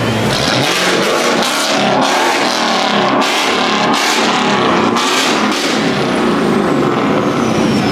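Car engine revving hard at high volume, in repeated surges about once a second with a loud rushing exhaust. From about six seconds in, a thin tone slides slowly down in pitch over it.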